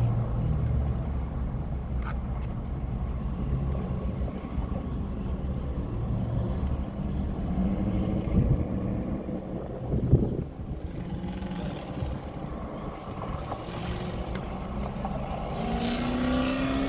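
Steady low rumble of a motor vehicle, with scattered small clicks and one louder knock about ten seconds in.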